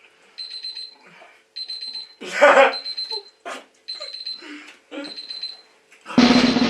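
An electronic alarm beeping in short high-pitched bursts about once a second, with a loud shout partway through. Loud music with a beat cuts in just before the end.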